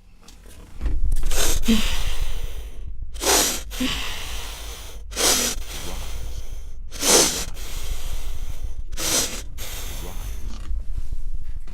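A woman breathing heavily. A loud breath comes about every two seconds, with weaker breaths between, over a low steady rumble.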